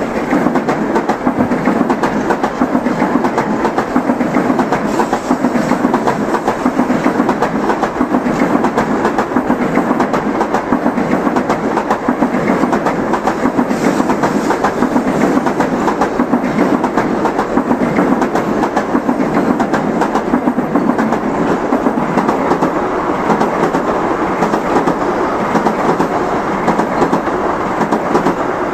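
Tokaido Shinkansen N700-series trains passing one after another: a steady rumble with a rhythmic clatter of wheels on the rails, the next train following close behind near the end.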